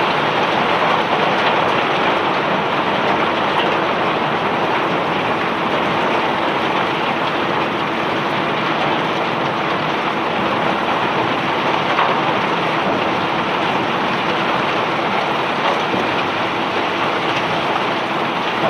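Rock cargo pouring steadily off a self-unloading barge's conveyor, a continuous rain-like rushing hiss, with a faint steady machinery hum beneath.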